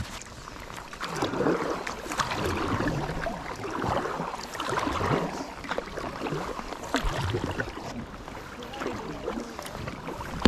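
Kayak paddle blades dipping and splashing in the water, stroke after stroke, with the water swirling every second or two.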